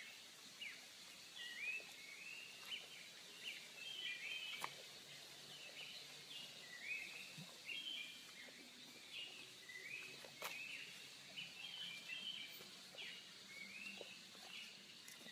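Birds chirping: many short, quick rising-and-falling calls overlapping throughout, over a faint steady hiss. A few sharp clicks, the clearest about ten seconds in.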